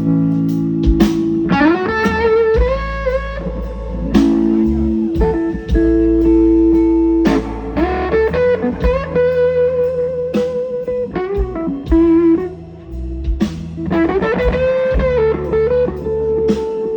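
Live blues band playing a slow ballad: an electric guitar plays lead lines with bent notes that glide up and down, over bass guitar and drums.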